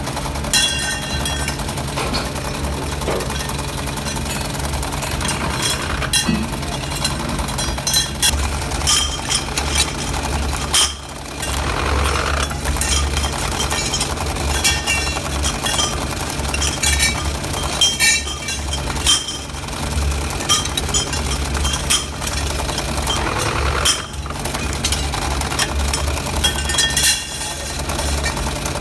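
Metalworking machinery running with a steady low hum, with frequent sharp metallic clinks and ringing strikes as steel parts are worked and handled.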